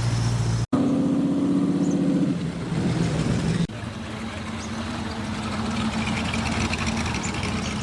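Car engines idling at close range in short clips spliced together. The loudest runs with a fast, even throb, and after a cut about three and a half seconds in, a quieter engine holds a steady tone.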